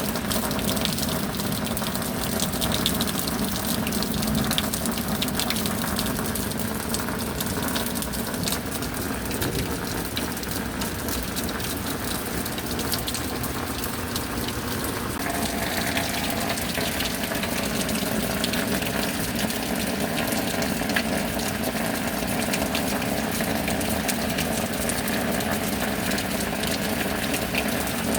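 Steady rain falling with a dense patter of drops. A constant mechanical hum runs underneath, and its pitch shifts about halfway through.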